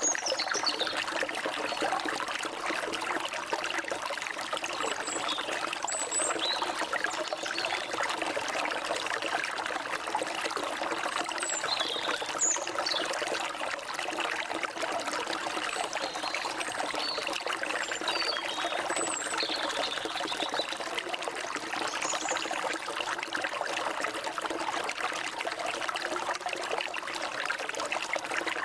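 Forest stream water trickling and flowing steadily, with birds giving short, high chirps and whistles over it every few seconds.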